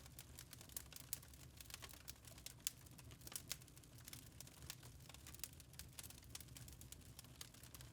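Wood fire burning in a fireplace, crackling faintly with frequent irregular sharp pops and snaps over a soft low rumble.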